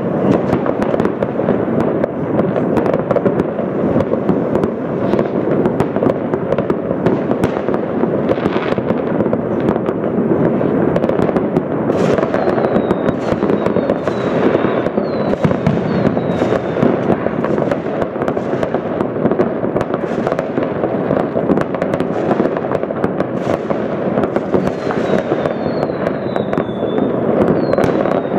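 Countless fireworks going off at once across a city, blending into a continuous dense rumble of bangs and crackles with sharper cracks scattered through it. From about halfway through, short falling whistles of whistling fireworks cut in, several in a row near the end.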